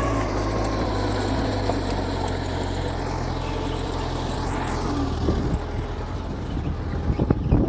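Mitsubishi G2 bulldozer's diesel engine running steadily, with a few sharp metallic clanks near the end.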